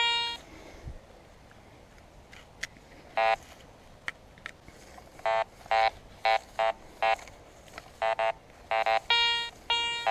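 Garrett Ace 200i metal detector in zero-discrimination all-metal mode giving short, buzzy beeps as the coil sweeps over scattered iron, about a dozen in all, coming closer together near the end before a longer tone.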